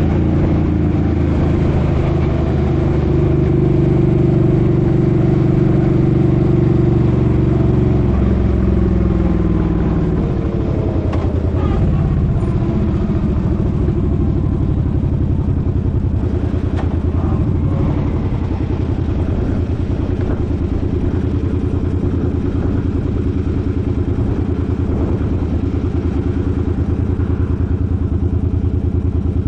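Suzuki Boulevard M50's 805 cc V-twin engine running at a steady cruise. About nine seconds in the engine note falls as the bike slows, then it settles into a lower steady run, with a few faint clicks.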